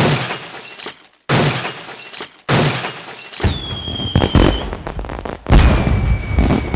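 A series of crash and smash sound effects, five in a row: three short crashes about a second apart, then two longer crashes, each with a high ringing tone that hangs on and drifts slightly lower.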